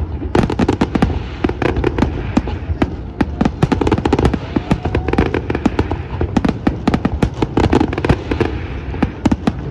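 Aerial fireworks display going off in rapid succession: dense, overlapping bangs and cracks with no pause.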